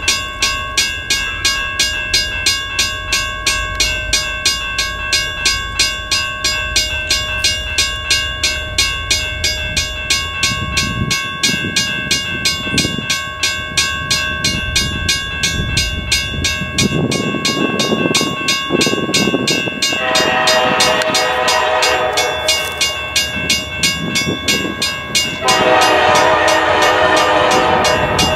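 A bell rings about twice a second while a diesel freight train rumbles past. Near the end the locomotive's multi-note horn sounds twice: a blast of about two seconds, then a longer one.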